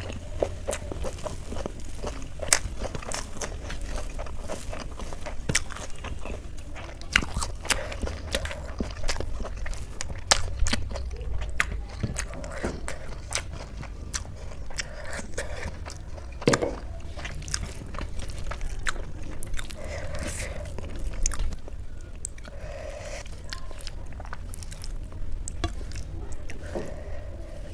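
A person eating on a close microphone: chewing and biting food, with many small, sharp wet mouth clicks and smacks.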